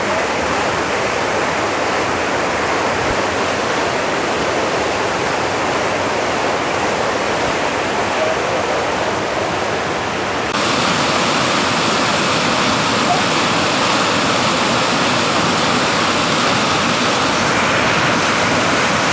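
Waterfall in heavy flow, a steady dense rush of water. About halfway through it steps suddenly louder and hissier.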